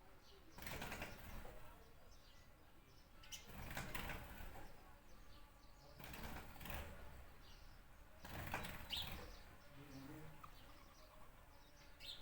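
Birds calling, with short faint chirps, over a soft rushing sound that swells every two to three seconds.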